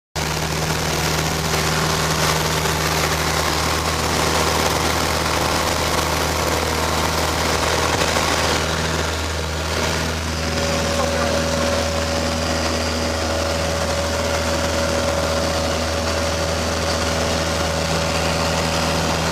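Light aircraft engine running steadily with a constant drone; a higher steady tone joins in about ten seconds in.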